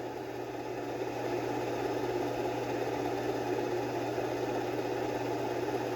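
Magicteam SN-A3 sound machine playing its "industrial fan" sound: a steady low fan rumble with a constant hum underneath, growing slightly louder in the first second or two and then holding even.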